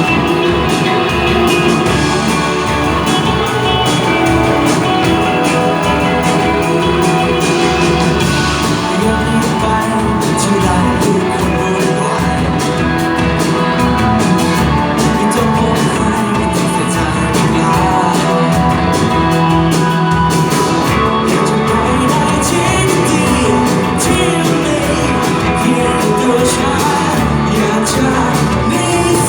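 A band playing a rock-style song live, with a voice singing over the instruments.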